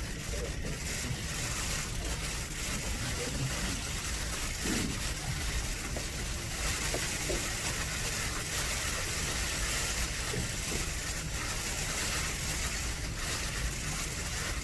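Steady hiss of room noise in a press room, with scattered faint clicks from press photographers' camera shutters.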